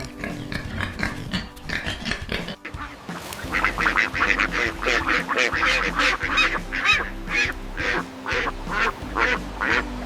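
Animal calls: a few calls in the first couple of seconds, then after a brief break a fast run of loud, short calls, several a second, over faint background music.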